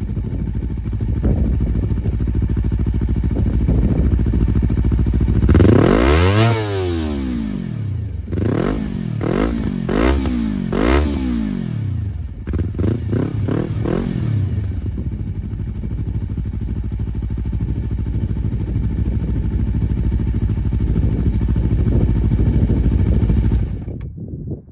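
Honda CBR250RR MC51's 250 cc parallel-twin engine, breathing through a Moriwaki and SP Tadao Power Box aftermarket exhaust, idling and being revved: one long rev about six seconds in, then a run of quick throttle blips, each rising and falling in pitch, before settling back to idle. The sound cuts off suddenly near the end.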